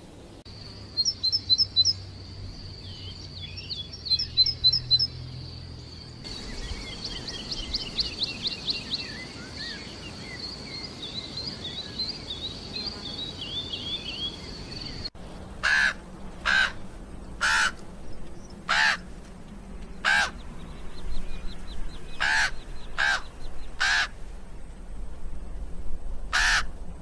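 Songbirds singing high, quick trills and warbles for the first half. Then, after a sudden change, a string of about ten loud, harsh caw-like bird calls comes roughly one a second.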